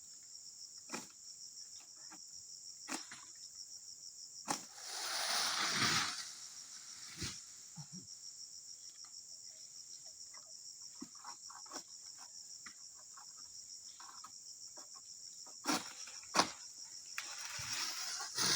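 Insects chirping in a steady, fast-pulsing high drone, with several sharp knocks scattered through it. Two louder rustling swishes come, one about five seconds in and one near the end.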